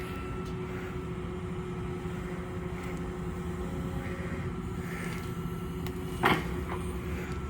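An engine running steadily at idle, with one sharp knock about six seconds in.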